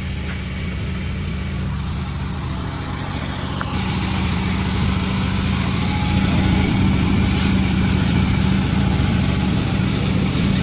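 Panda36 sawmill running with a steady low drone. About four seconds in, a broad hiss joins it and the sound grows a little louder, as the saw blade cuts into bayur wood.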